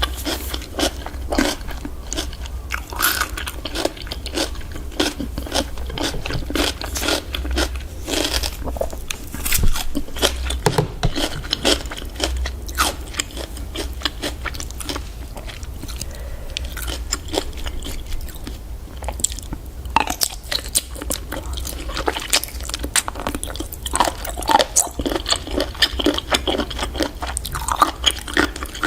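A person biting and chewing giant octopus close to the microphone: a dense run of short, irregular clicks and chomps over a steady low hum.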